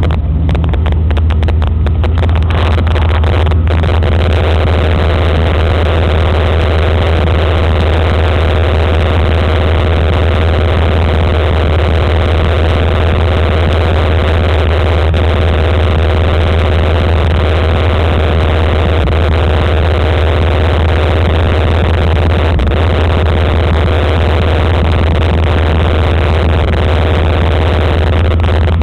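1993 Chevrolet S10 Blazer's V6 running steadily through a dual straight-pipe exhaust with the catalytic converter still fitted, a loud, deep, even exhaust note. The sound is dulled by a poor camera microphone.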